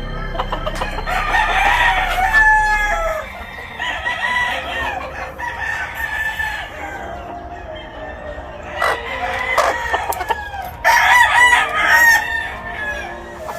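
Several gamefowl roosters crowing over one another, one crow after another, with the calls thickest near the end.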